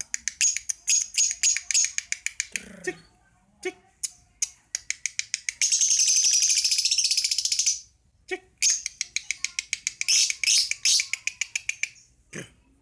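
Lovebird chirping in rapid runs of short, sharp, high calls, with a continuous stretch of chatter lasting about two seconds near the middle.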